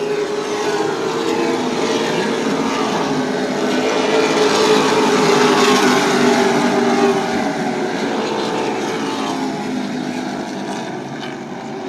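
Several race trucks running at speed, their engines overlapping as the field comes past, growing louder toward the middle and then fading.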